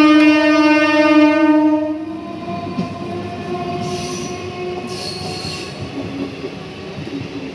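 MEMU electric train's horn sounding one long, steady note that stops about two seconds in, followed by the train rolling past with a rumbling wheel noise and two brief high hisses.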